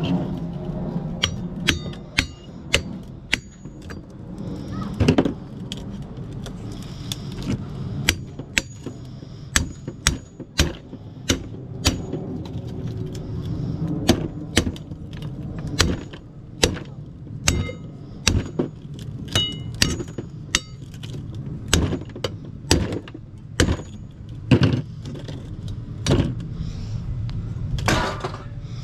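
Irregular metallic clinks, taps and knocks, some with a brief ring, as metal scrap parts are worked loose and taken apart, over a steady low rumble.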